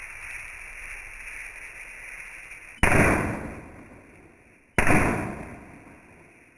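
Two sudden loud blasts about two seconds apart, each dying away over a second or so, over a steady background hiss.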